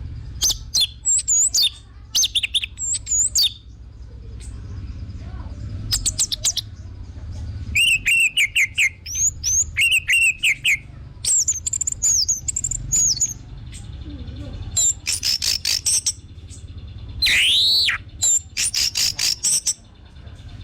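Orange-headed thrush singing: a run of short, varied phrases of quick notes and slurred whistles with brief pauses between them. A steady low hum lies underneath.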